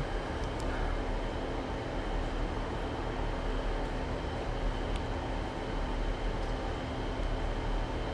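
South Western Railway Class 159 diesel multiple unit, two units coupled, running into the station platform with a steady diesel engine drone and rumble.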